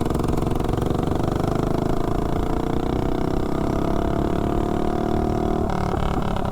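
Tillotson 212 single-cylinder engine on a Doodlebug mini bike accelerating under load, its pitch climbing steadily as the bike gathers speed, then changing abruptly near the end as the throttle comes off. It runs on a 20% nitro fuel blend and cannot be held fully open yet; the carburetor still needs more tuning.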